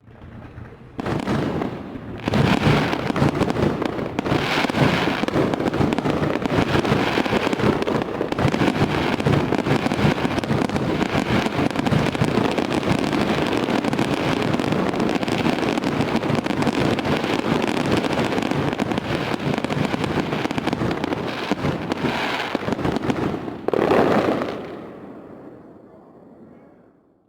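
Fireworks going off in rapid succession: a dense, continuous crackle of bursts with louder bangs now and then. It starts suddenly about a second in and fades away over the last few seconds.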